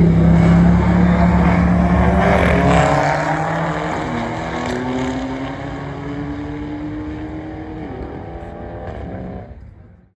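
Motor vehicle engine running, loud at first and then gradually fading. A steady low hum drops out about three seconds in, and the sound cuts off abruptly near the end.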